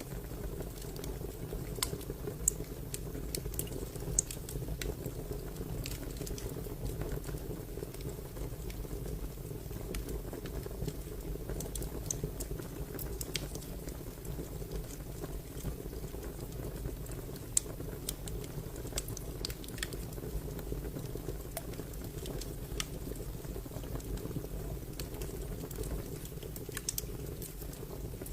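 Fire crackling: a steady low rush of burning with irregular sharp crackles and pops scattered throughout.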